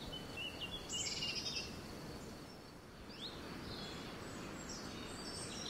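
Birds chirping, short high calls over a steady low background hiss, with a quick run of chirps about a second in.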